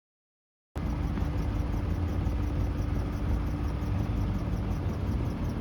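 Steady low rumble of a car heard from inside the cabin, starting abruptly about a second in.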